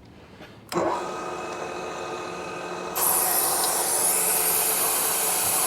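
A manual milling machine's spindle starts up less than a second in and runs with a steady whine. About three seconds in, a steady high hiss of a mist coolant system spraying air and coolant joins it.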